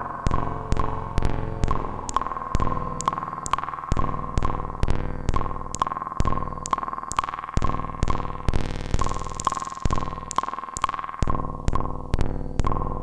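Eurorack modular synthesizer playing a microsound patch meant to evoke rain: a steady patter of sharp clicks, several a second, over sustained tones, with a brief hissy swell about nine seconds in.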